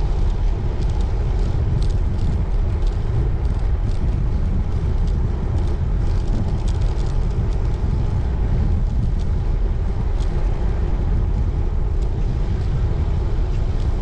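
Wind buffeting the microphone and tyre noise from a road bike being ridden, with scattered light clicks.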